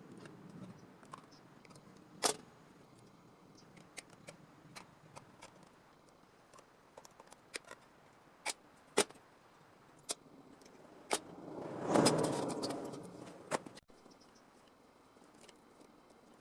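Scattered small metallic clicks and taps of tools and sheet-metal parts being handled. Near the end a louder rushing noise swells for about two seconds and cuts off suddenly.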